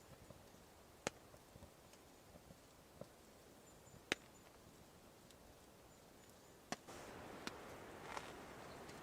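Small wood stove fire crackling: a handful of sharp, isolated pops over a faint hiss that grows a little louder about seven seconds in.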